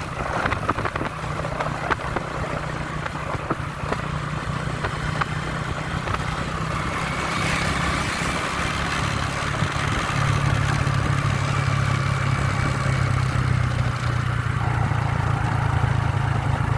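Motorbike engine running steadily while riding along a road, growing louder about ten seconds in.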